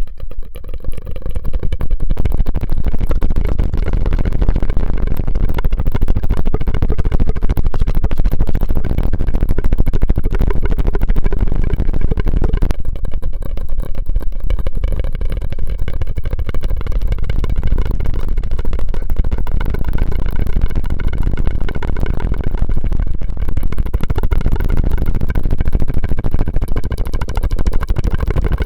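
Close-miked ASMR mouth and straw sounds: a loud, dense, continuous run of rapid clicks and crackles that picks up about a second in.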